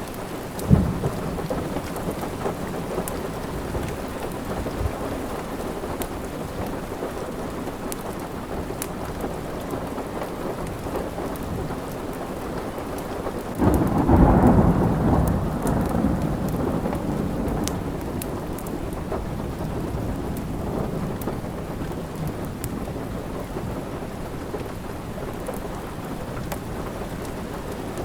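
Steady rain with a rumble of thunder about halfway through that swells and rolls away over a few seconds, and a sharp crack less than a second in. Small crackles of a wood fire sound throughout.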